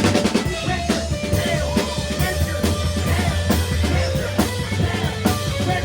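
Live rock band playing loud, the drum kit prominent with rapid, regular hits over a sustained low bass line.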